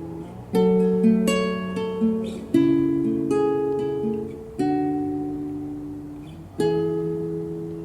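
Acoustic guitar playing an unaccompanied intro: chords and picked notes struck every half second to two seconds, each left to ring and fade.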